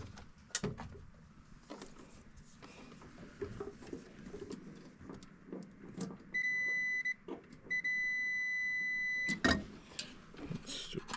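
Multimeter continuity beep sounding twice, a short steady tone and then a longer one, as the test leads touch a furnace limit switch: the tone means the switch is closed and passes the test. Light clicks and handling noises from the leads and the panel come before and after.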